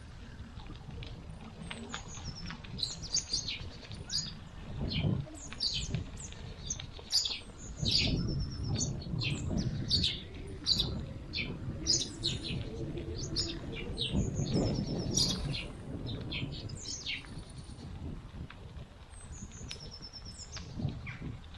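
Woodland birds chirping and calling again and again with short, high chips and trills, over the low rumble of a bicycle riding along a forest path.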